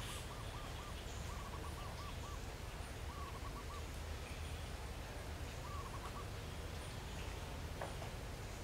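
A bird calling over and over: short wavering phrases of a few low notes, one every couple of seconds, over a steady low rumble.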